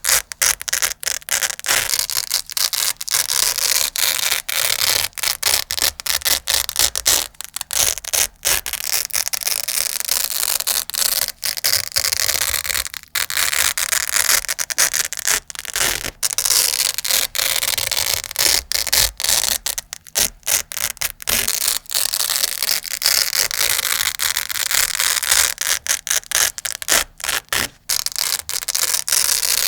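Velcro hook-and-loop fastener being rubbed, scratched and pulled apart close to the microphone, a continuous crunchy rasping broken by many short pauses.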